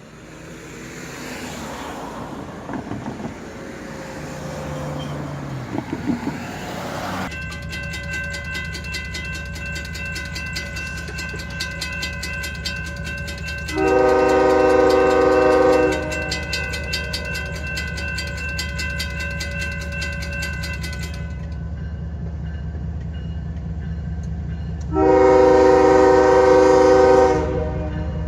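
A diesel-electric freight locomotive starts running louder about a quarter of the way in, then sounds two long blasts on its air horn, a Nathan K5HL. Two long blasts are the signal that the train is about to move forward.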